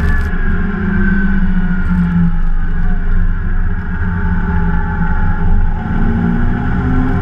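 Race car's straight-six engine heard from inside the cabin: the revs fall over the first few seconds as the car slows for a corner, then rise again near the end as it accelerates out, over a steady low rumble.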